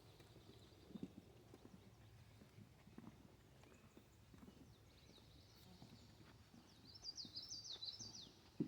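Faint footsteps knocking on a wooden boardwalk, roughly one step a second. Near the end, a faint bird song: a quick run of repeated high notes.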